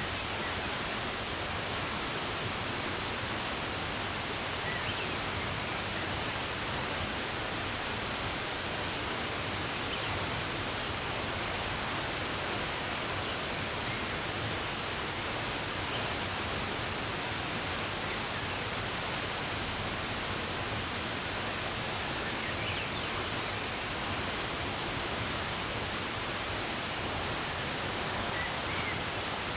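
Steady, even rush of running water, with faint, short bird chirps now and then above it.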